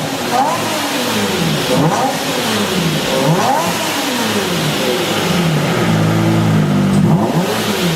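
Lamborghini Murciélago LP 640's 6.5-litre naturally aspirated V12 revving up and down several times, its pitch climbing and falling with each blip.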